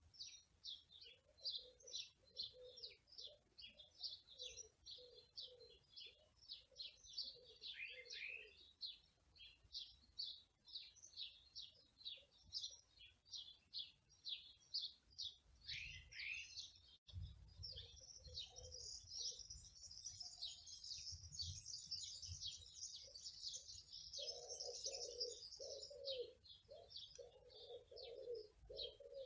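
Small songbirds chirping rapidly and continuously in a high register, with a dove cooing low underneath. About halfway through, the chirping becomes a denser, higher trill, and the cooing returns louder near the end.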